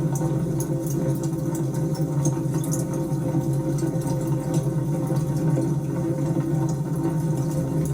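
Wood fire burning, with scattered small crackles and pops over a steady low roar of flame.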